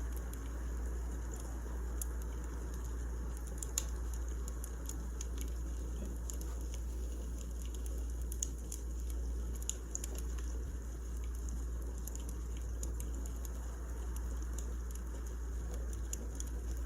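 Wood fire burning: irregular crackles and pops over a steady low rumble.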